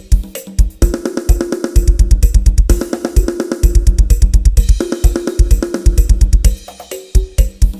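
Drum kit playing fast double-kick bass drum runs with tom fills and cymbals, a drum track used to test the bass of a sound system.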